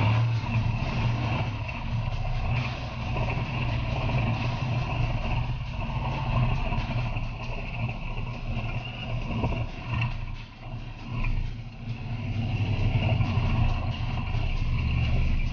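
Race car engine running hard and steady, with a brief drop in level about ten seconds in.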